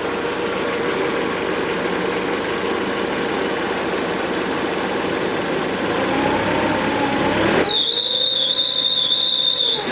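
Mercedes-Benz W202 C200 engine idling, then revved up; about seven and a half seconds in a loud, high-pitched, wavering squeal sets in and holds for about two seconds before cutting off as the revs drop. It is the abnormal noise that appears under higher revs even after the tensioner and V-belt were replaced.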